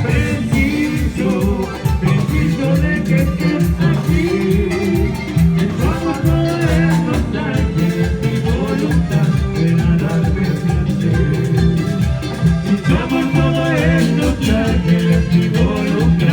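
A band playing upbeat Latin dance music with a steady, pulsing bass beat and a melody line over it.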